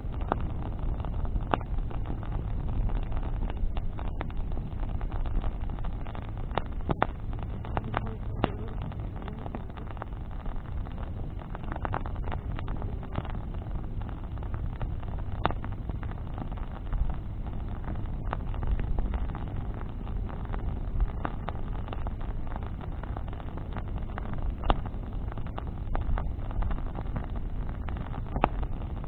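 Bonfire of burning branches crackling, with irregular sharp pops scattered throughout, over a steady low rumble.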